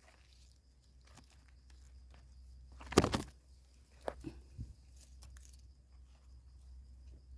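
Rustling and crackling as termite mushrooms are picked by hand from the soil and leaf litter. There is one loud crackle about three seconds in, then a few lighter clicks.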